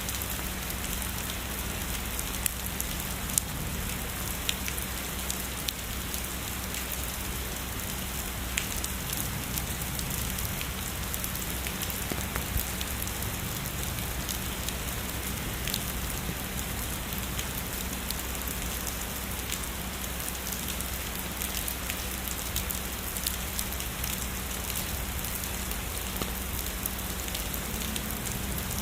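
Heavy rain falling steadily, a dense even hiss with many sharp individual drop taps scattered through it, a few of them louder in the first half.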